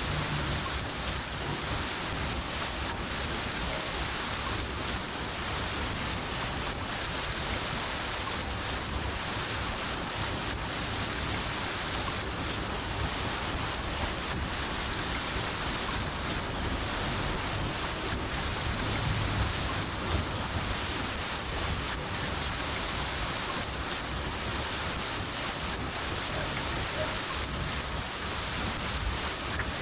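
A cricket chirping steadily at about three to four chirps a second, with two short breaks, over the even hiss of steady rain.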